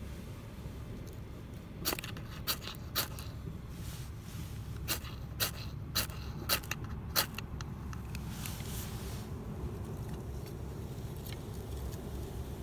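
A run of about eight sharp knocks or clicks, roughly half a second to a second apart, over a steady low rumble, followed by a brief rustle.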